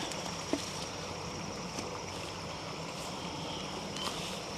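Steady summer outdoor ambience: a continuous high insect drone over a low hum, with a faint click about half a second in.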